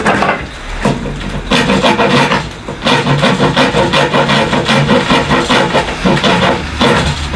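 Hand file rasping at the corner of a wooden board in repeated back-and-forth strokes, taking the corner down so the board fits.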